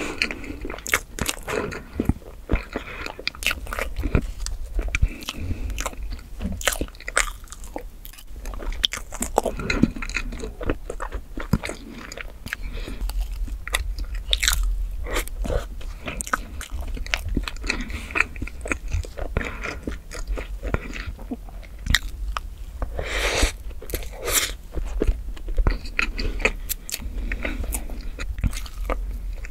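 Close-miked chewing of chocolate whipped-cream cake: wet mouth smacks and many short clicks, with a fork scooping and scraping pieces off the cake board.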